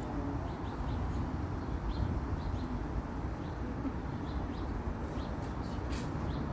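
Small birds chirping faintly in short, repeated high notes over a steady low rumble.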